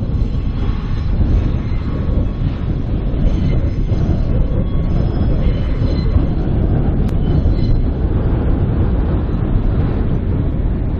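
A sugar cane train running on 2 ft gauge track, with the steady rumble of its wheels and wagons.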